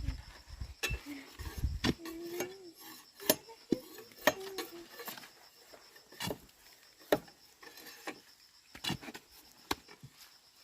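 Hand tools knocking and scraping against stone and earth while digging: a dozen or so irregular sharp knocks and clicks, unevenly spaced.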